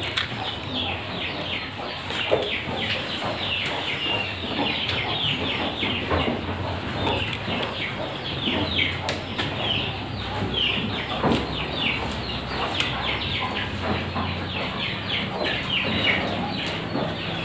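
Birds chirping, a dense run of short, high chirps that each fall in pitch, with a low hum that comes and goes underneath.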